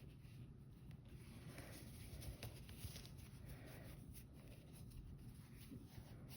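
Near silence: faint soft rustling and small ticks of yarn and a crochet hook as stitches are worked, over a low room hum.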